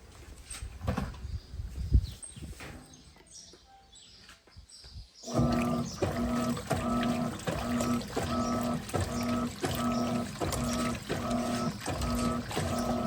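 Electrolux LTP15 top-loading washing machine starting to agitate about five seconds in: its motor hums in a steady rhythm, pulsing about one and a half times a second as the agitator swings back and forth, with water sloshing. Before that there are scattered knocks, one sharp thump among them.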